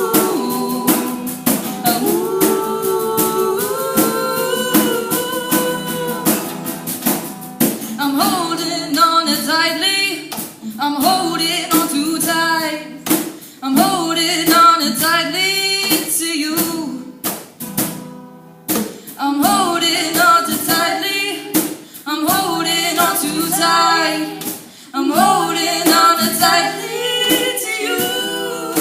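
Girls singing wordless vocal runs over instrumental backing, in phrases a few seconds long with sharp percussive hits.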